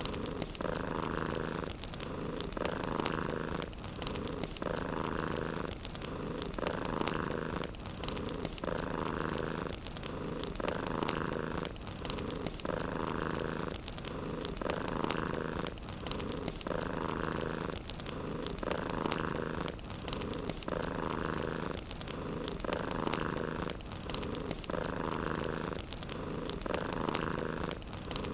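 Domestic cat purring close up in a steady rhythm, its pitch switching with each breath in and out, about one full breath every two seconds. Fine fireplace crackles sound throughout.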